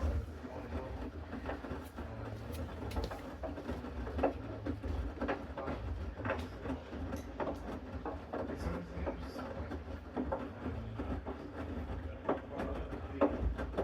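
Bosch Series 6 washing machine running its main wash: a steady low rumble and hum from the turning drum, with irregular knocks and clicks scattered throughout.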